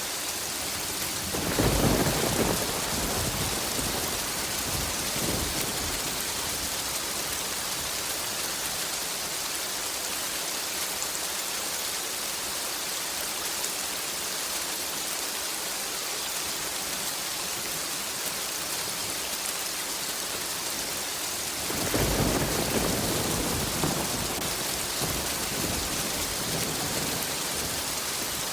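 Steady rain hiss of a thunderstorm, with two rolls of thunder: one rumbling in a second or two in and dying away over a few seconds, and another about three-quarters of the way through.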